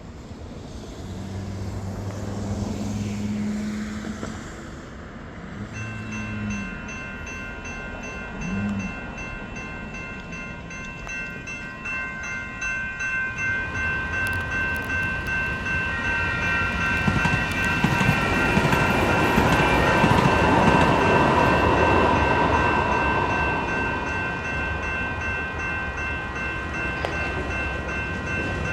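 Light rail train horn sounds one long blast and two short toots. Then railroad crossing bells start ringing steadily, and the train rolls past with a rising and falling rumble, loudest about two-thirds of the way through.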